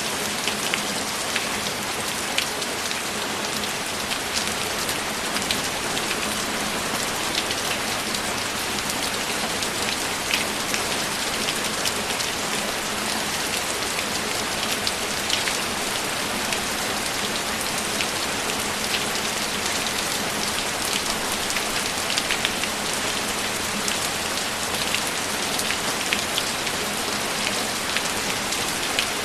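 Steady, heavy rain falling continuously, with many individual drops pattering and ticking close by over the even hiss of the downpour.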